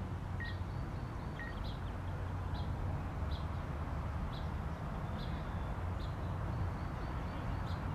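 Outdoor pond-side background: a steady low rumble, with a small bird's short, high chirp repeating about once a second.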